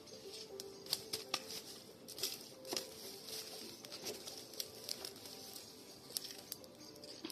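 Wood campfire crackling, with irregular sharp snaps and pops, a few a second, over a soft steady hiss.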